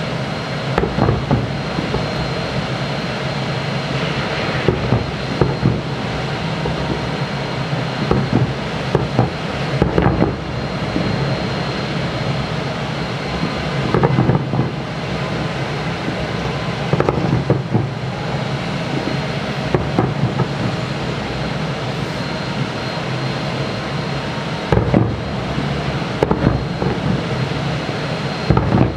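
Distant fireworks display: aerial shells bursting in irregular bangs, sometimes two close together and sometimes several seconds apart, over a steady background rumble.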